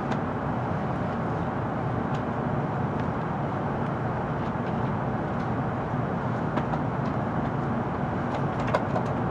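Steady running noise inside the passenger cabin of an N700-series Shinkansen train at speed, a dense even rumble, with a few faint light clicks, one near the end.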